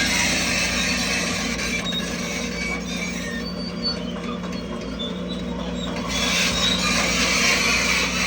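Crawler bulldozer working: a steady diesel engine drone with short, high metallic squeaks from its tracks.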